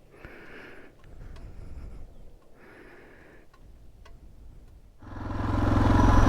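Two short huffs of breath close to the microphone, with a few faint clicks, as the camera lens is cleaned; about five seconds in, a Suzuki DR650's single-cylinder engine sound swells up and runs steadily.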